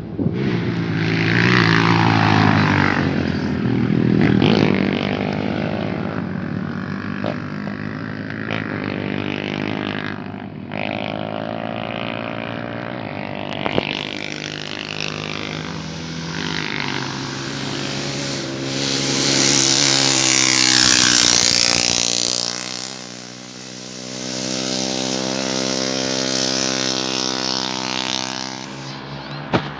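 Motocross motorcycle engines revving as the bikes race by, with pitch rising and falling through gear changes; the sound swells to close passes twice, near the start and about two-thirds through.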